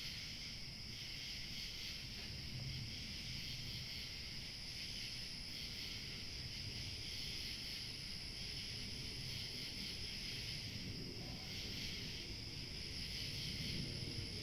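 Steady chorus of crickets chirping without pause, with a low rumble of light wind beneath it.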